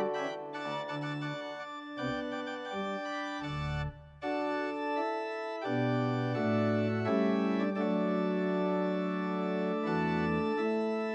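Organ playing sustained chords over low pedal bass notes, the chords changing every second or so, with a brief break about four seconds in before fuller held chords.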